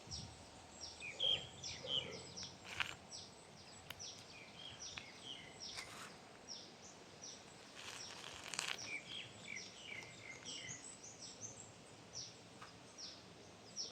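Small birds chirping at dusk: many short, quick downward chirps repeated over and over, faint. Three brief swishes come through in the middle.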